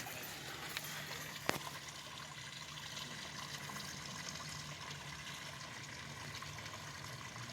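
A small stream trickling and running steadily, with one sharp click about a second and a half in.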